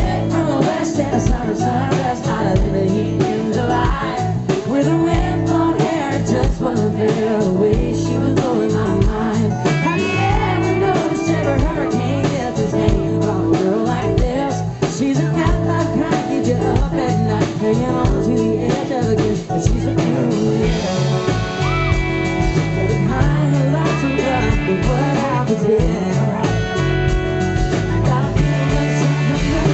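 Live band playing a country-pop song: a sung lead vocal over guitar and a steady drum beat.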